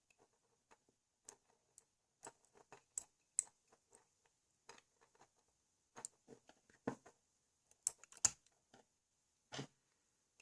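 Irregular small clicks and taps of hard plastic LEGO motor parts being handled, with a few louder knocks about three and a half, eight and nine and a half seconds in.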